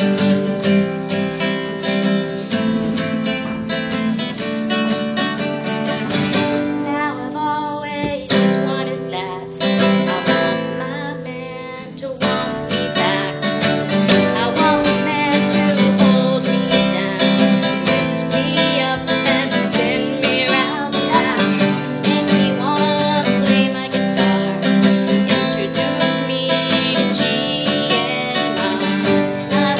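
Acoustic guitar strummed steadily with a woman singing over it, playing a little softer and sparser for a few seconds partway through.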